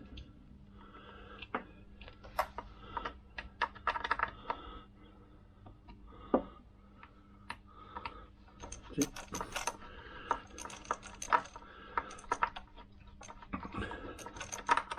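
Small metal parts clicking and tapping by hand: a nut and washers being handled and threaded finger-tight onto a bolt. The clicks come irregularly, busiest in the second half, over a faint steady hum.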